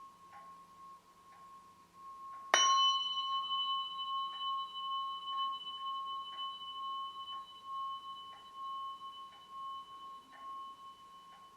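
A singing bowl ringing, struck again about two and a half seconds in and then ringing on with a clear high tone and several higher overtones that slowly fade. Faint ticks come about once a second.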